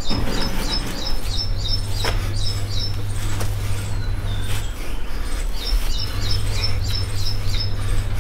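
A small bird chirping outside in two quick runs of short high notes, one in the first few seconds and another near the end, over a steady low hum.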